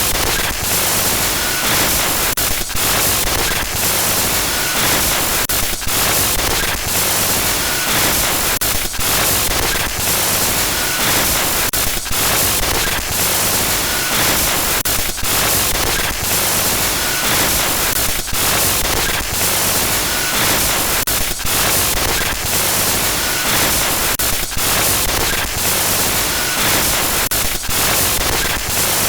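Glitch noise sound effect: loud, continuous static hiss that stutters with many brief dropouts and crackles, looping with a faint chirp about every two seconds.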